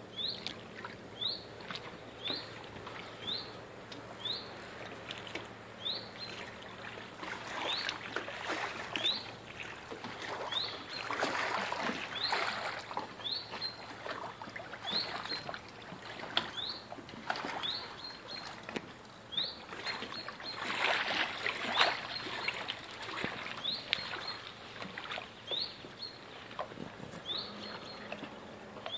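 A bird repeats a short rising call about once a second. Water laps and splashes against a moored motorboat's hull, swelling a few times.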